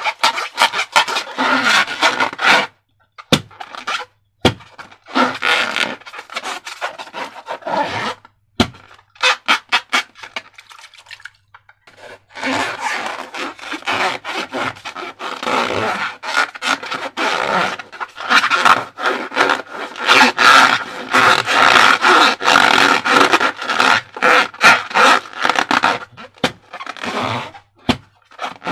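Slime being squished, a dense sticky crackling full of small pops and clicks, in stretches broken by a few short pauses.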